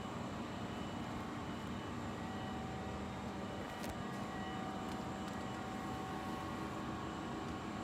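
Steady mechanical droning background noise with a few faint constant tones, and a single faint tick about four seconds in.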